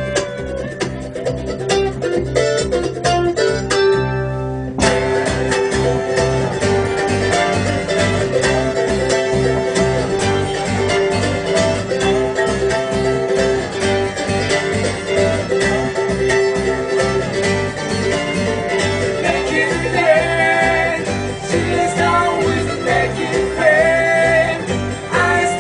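Acoustic bluegrass band playing live, the instruments thinner at first until the full band comes in suddenly about five seconds in.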